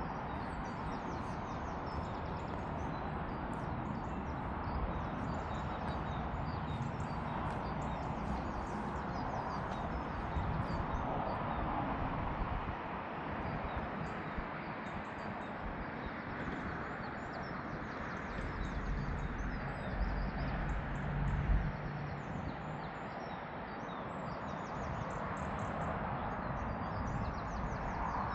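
Small birds chirping repeatedly, high and brief, over a steady outdoor background noise. A low rumble swells about two-thirds of the way through and fades again.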